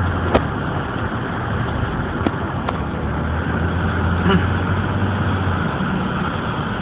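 Inside a car in a heavy thunderstorm: a steady hiss of storm noise over the low hum of the idling engine, which fades out near the end, with a few sharp clicks.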